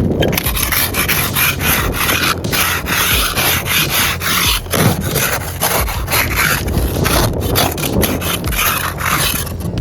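Snow scraper being dragged over a car, scraping off hard-packed snow in quick repeated strokes.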